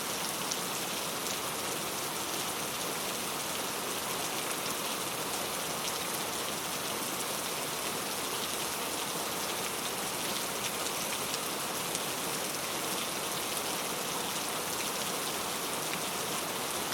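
Heavy rain falling on mango tree leaves: a steady, dense hiss of drops striking the foliage, with fine individual drop ticks throughout.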